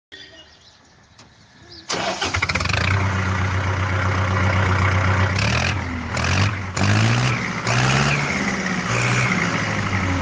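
Kubota MU4501 tractor's diesel engine starting about two seconds in and then running loudly, its revs rising and falling several times in the second half.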